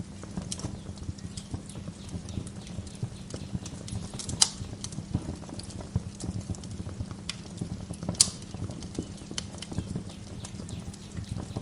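Wood fire crackling in a fireplace: a steady low rumble with frequent small snaps and two louder pops, about four and a half seconds in and about eight seconds in.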